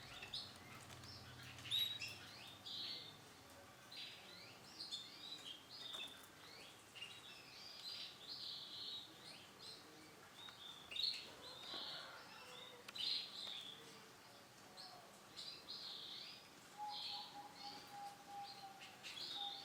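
Male canary singing in bursts of short, high chirps and trills, with brief pauses between phrases.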